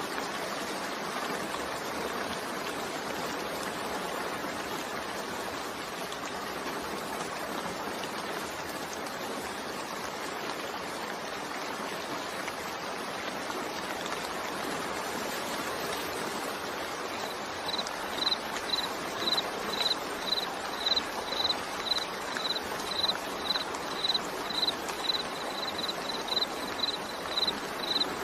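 Steady rain falling, an even hiss. From a little past halfway, a high, pulsing insect chirp starts, repeating about twice a second and standing out above the rain.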